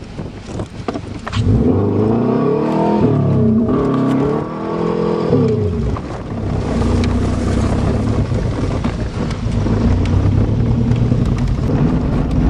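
Subaru Legacy's boxer engine revving up and down several times, then running more steadily as the car drives on, with wind noise over it.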